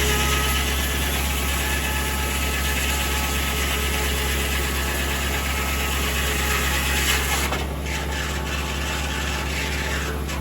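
Tractor engine running steadily while it drives a 1950 Corley circular sawmill. A brighter noise from the mill rides over the engine drone and drops away about three-quarters of the way through.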